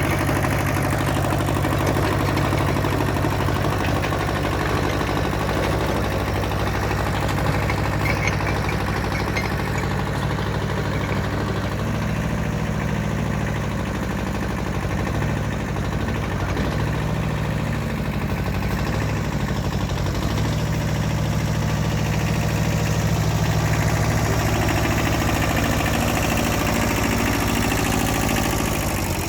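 Diesel engine idling steadily with a low clatter, its note shifting for several seconds midway before settling again.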